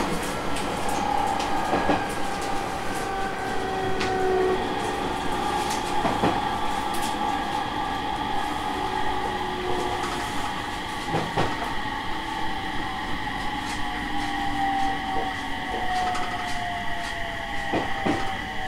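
Aoimori Railway 701 series electric train running between stations, heard from inside the car: steady wheel and track noise under a whine that falls slowly in pitch, with a rail-joint clack every few seconds.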